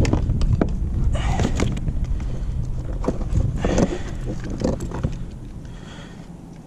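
Irregular knocks and clatter on a plastic kayak hull, over a low rumble that fades about five seconds in.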